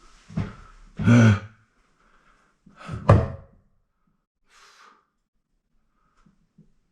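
A few hollow thunks and knocks from handling parts on a tankless water heater while fitting a screw, with a short strained sigh or grunt among them.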